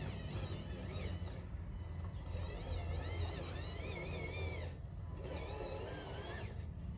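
Small electric motors of radio-controlled construction machines whining, the whine wavering up and down in pitch over a steady low hum, with brief dips a few times.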